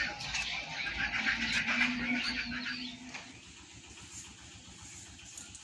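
Birds chirping for about three seconds, then they fade and a small engine runs low in the background.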